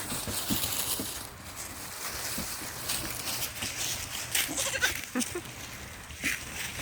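Pygmy goat bleating, with a steady hiss underneath.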